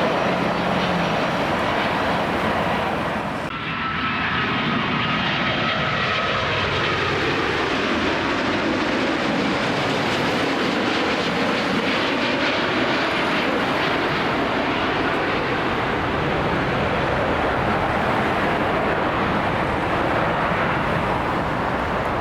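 Airliner's engines passing close by with a loud, steady rush, a faint whine in the sound gliding down in pitch as it goes past.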